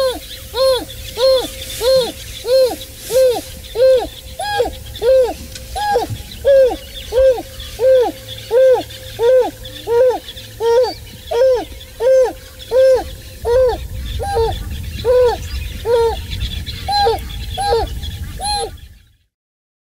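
African wild dog hoo contact calls: a long run of short hoots, each rising then falling in pitch, about three every two seconds. From about two-thirds of the way through, a second, higher-pitched caller overlaps, over a low rumble.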